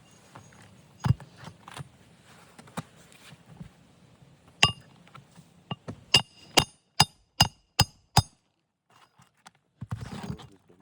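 Hammer striking roofing nails into a replacement asphalt shingle, each blow with a short metallic ring: two single strikes, then a quick run of six at about two and a half a second. A brief scraping rustle near the end.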